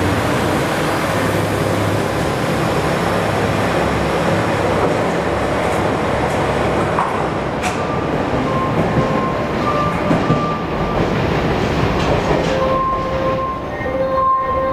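Diesel trains moving through the station: a steady rumble of engines and wheels on rail. In the last few seconds short steady tones come and go over it.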